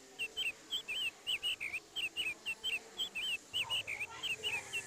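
A bird singing a quick, unbroken run of short whistled notes, each one sliding up or down in pitch, about five notes a second.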